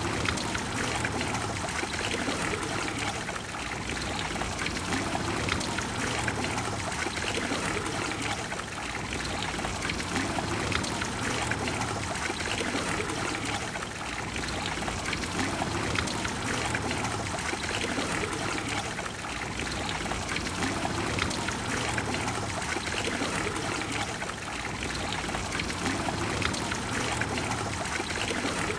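Water of the Trevi Fountain falling and splashing into its basin: a steady rush of flowing water that swells and eases a little every few seconds.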